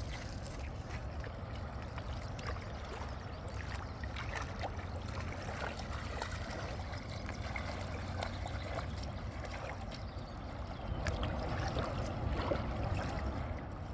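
Water flowing and trickling steadily, a little louder near the end.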